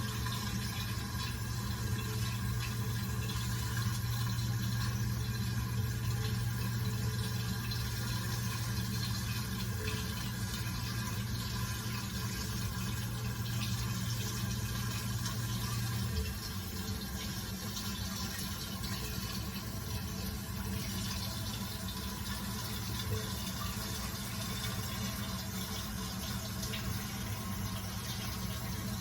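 Toilet cistern refilling after a flush, with water running steadily into the tank. A low hum underneath drops away about sixteen seconds in, and the water keeps running a little quieter.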